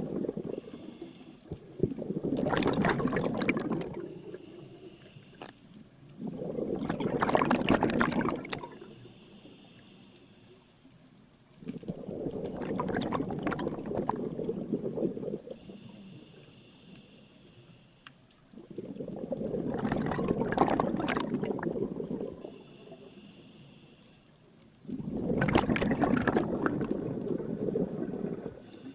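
Scuba diver breathing through a regulator underwater: a faint hiss of the demand valve on each inhalation, then a loud rush of exhaled bubbles. There are five breaths, about one every six seconds.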